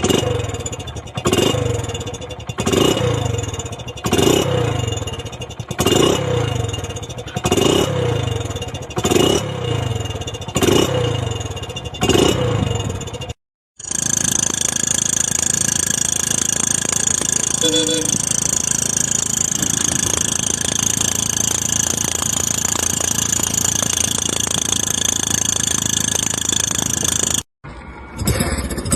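Hero Splendor Plus's single-cylinder four-stroke engine, fitted with an aftermarket GCL silencer, revved in repeated throttle blips about every second and a half, each rev falling back to idle. After a cut about halfway through, a steady, even sound with a hiss runs on unchanged.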